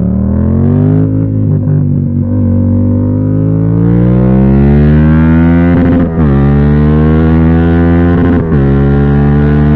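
Yamaha MT-07's CP2 parallel-twin engine through an aftermarket titanium full exhaust, ridden hard and accelerating uphill, loud. The revs climb, then drop sharply with quick upshifts about six and eight and a half seconds in.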